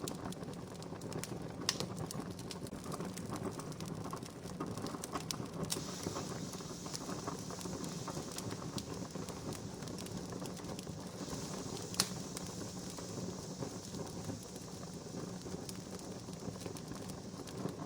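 Wood campfire crackling: a steady low rush of burning scattered with many small snaps and pops, the sharpest pops about two seconds in and about twelve seconds in.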